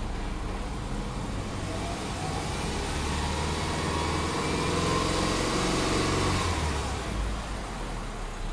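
Subaru Impreza Anesis 2.0i-S's 2.0-litre flat-four (boxer) engine free-revved in Park. It climbs slowly from idle to about 2,500 rpm, holds there briefly, then drops back to idle near the end. Heard from inside the cabin.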